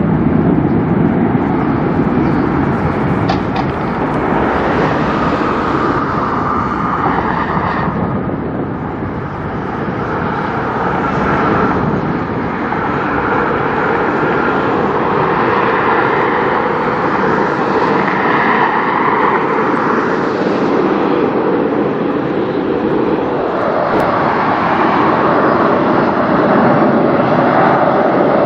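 Jet airliner engines running at high power, a loud continuous noise with slowly shifting tones, as on a takeoff.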